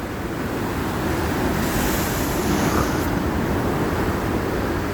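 Sea waves breaking and washing, with a hissing surge swelling from about two seconds in, and wind rumbling on the microphone.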